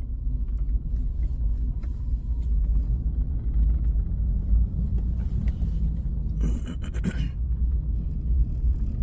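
Low, steady road and engine rumble inside a moving car's cabin, with a short burst of noise about six and a half seconds in.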